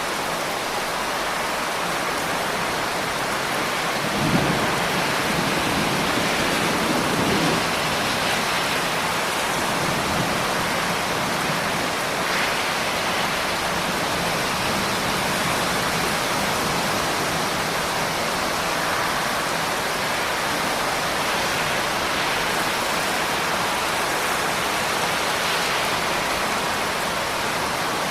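Steady rain falling, an even hiss, with a low rumble from about four to eight seconds in.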